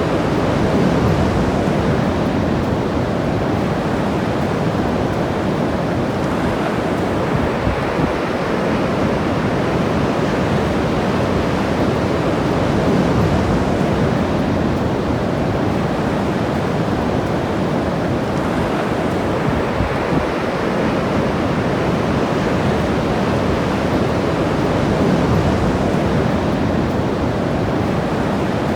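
Ocean surf breaking and washing on the shore in a steady rush, swelling a little every ten seconds or so, with wind buffeting the microphone.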